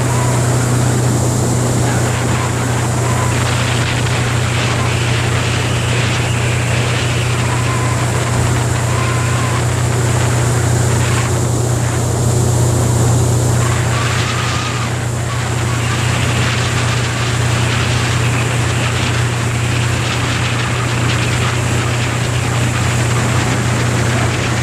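Motorboat engine running at a steady speed, a constant low drone under a steady rush of water and wind noise.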